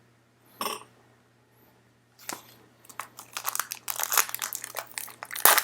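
Plastic trading-card packaging crinkling as it is handled: two brief rustles, then near-continuous crackling crinkles from about three seconds in.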